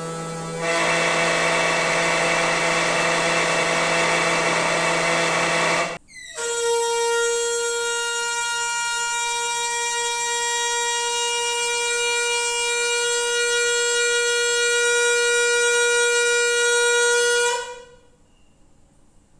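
Noisy water pipes droning with a steady pitched hum and a rush of hiss. About six seconds in, the hum breaks off and a higher steady whine takes over, then it cuts off suddenly near the end.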